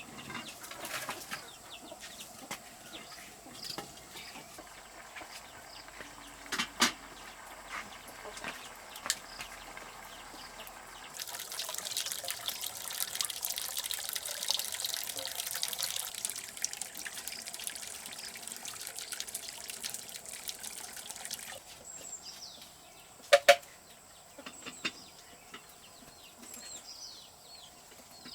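Water running or pouring for about ten seconds, a steady hiss that stops suddenly, amid scattered clicks and a few sharp knocks.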